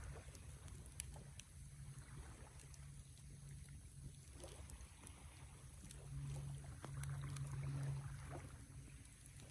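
Wood campfire burning: scattered faint crackles and pops over a low steady rumble.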